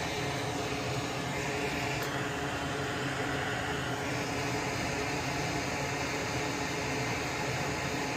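Hot-air rework station blowing steadily onto a circuit board to melt the solder on a relay's pins and free it.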